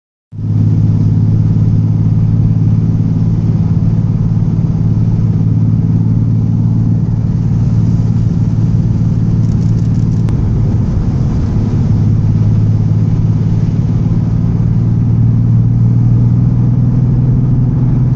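Car on the move: a steady engine drone with road noise, the engine pitch shifting slightly a couple of times.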